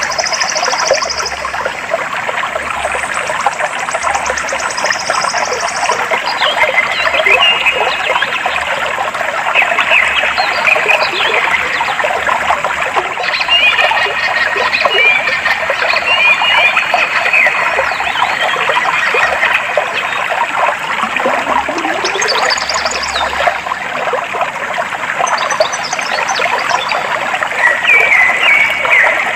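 Steady rush of clear flowing water, with birds chirping and whistling over it and rapid high trills near the start.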